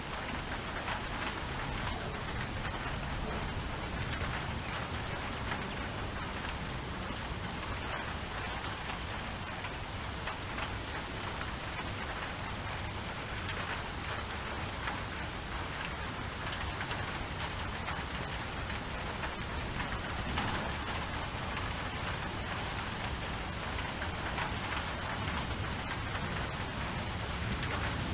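Steady rain falling: an even hiss of rain with many scattered drop ticks.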